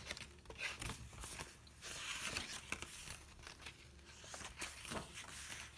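Paper pages of a handmade junk journal rustling and crinkling as they are turned and handled, with small clicks and taps among them.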